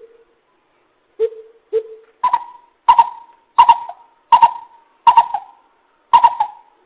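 Coucal (bìm bịp) hooting call played as a lure: two lower hoots a little after a second in, then a run of higher, evenly spaced hoots about two-thirds of a second apart.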